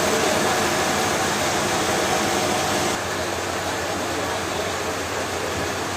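Steady machinery noise, an even rushing hum with faint steady tones, dropping a little in level about halfway through.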